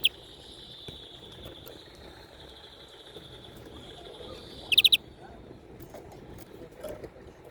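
European greenfinch singing: a long, steady trill with two loud bursts of rapid notes, one at the start and one just before the song stops about five seconds in.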